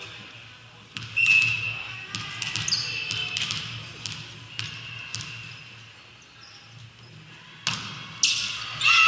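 Sharp impacts of a ball being hit and caught during a game, several in the first half and two more near the end, mixed with short shouts from players, and a burst of voices rising at the very end.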